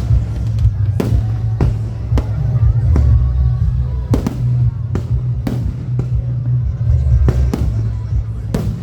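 Fireworks going off: a string of sharp bangs at uneven intervals, with music playing underneath.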